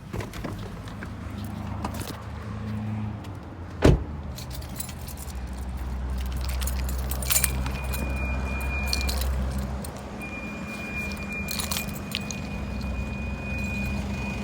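Car running with a steady low rumble, with a single sharp knock just before the 4-second mark and a thin, steady high-pitched tone sounding on and off through the second half, amid jangling.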